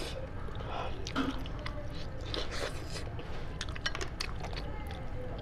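A person chewing cooked sheep head meat close to a clip-on microphone, with many short, sharp wet clicks and crunches of eating scattered throughout.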